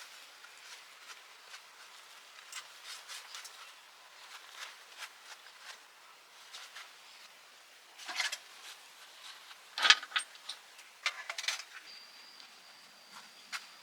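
Scattered light clicks and taps of handling, with short bursts of clatter about eight, ten and eleven seconds in, the loudest near ten seconds. A faint steady high tone starts near the end.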